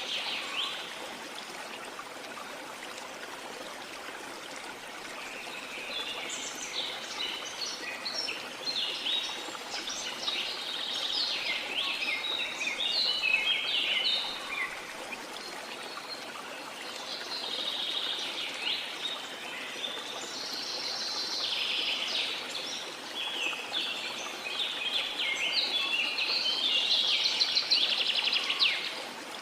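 Steady rush of a waterfall with tropical forest birds singing over it in dense runs of quick chirps and trills, first from about six seconds in and again through the second half.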